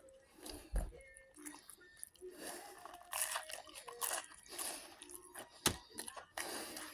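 Close-up eating sounds: fried chicken being bitten and chewed, with intermittent crunches and a couple of sharp clicks.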